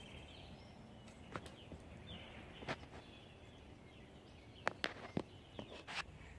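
Quiet open-air background with faint bird chirps and a handful of sharp clicks and taps, most of them bunched in the second half.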